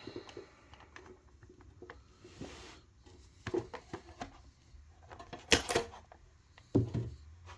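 Plastic display-case lid being worked off by hand: scattered light clicks and knocks, a brief scraping rustle about two seconds in, and two sharper plastic clacks a little past halfway.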